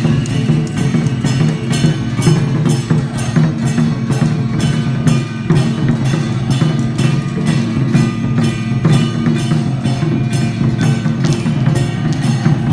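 Temple festival music: drums and wooden percussion struck in a steady, fast rhythm, with sustained pitched notes running over them.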